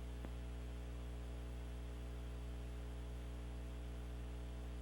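Steady electrical mains hum with a stack of even overtones and faint hiss, with a faint tick about a quarter second in.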